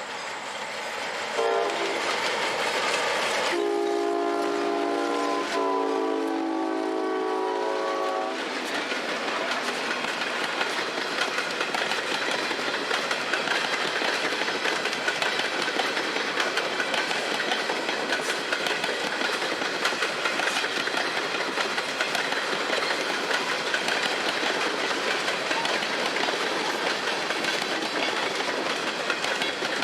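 Diesel locomotive air horn sounding a chord in several blasts, the last one long, over about the first eight seconds. Then a freight train rolls by, its wheels clattering over the rail joints.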